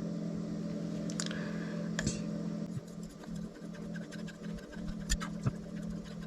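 Steel knife blade being stroked along a whetstone to polish the edge: light scraping strokes with a few sharp clicks, over a steady low hum.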